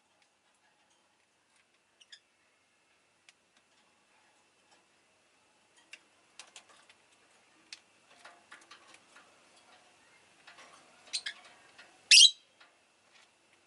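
Rosy-faced lovebird making scattered small clicks and light rustling, then a short sharp chirp about 11 seconds in and a louder, brief upward-sweeping chirp a second later.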